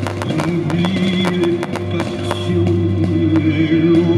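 Fireworks crackling and popping over music with long held notes. A quick, irregular run of sharp pops fills the first two seconds or so, then thins out.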